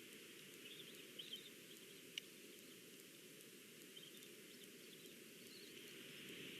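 Faint outdoor ambience: a steady hiss with a few faint bird chirps about a second in and another sharp chirp near two seconds in.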